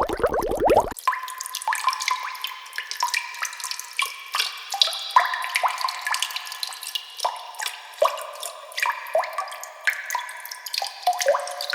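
Water-dripping sound effect: many quick drops plinking at different pitches into water. A burst of bubbling cuts off about a second in, just before the drips begin.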